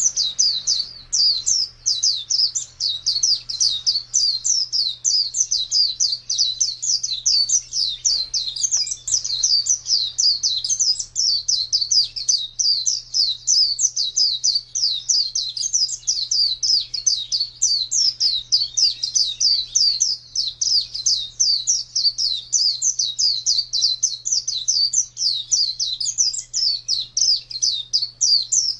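White-eye (pleci) singing a long, unbroken song of rapid high chirps, several a second, without pause.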